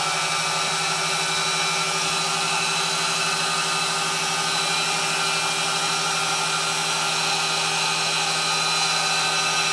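Dumore internal tool post grinder running at a constant speed, with its motor and freshly oiled spindle making a steady whine of several even tones over a hiss.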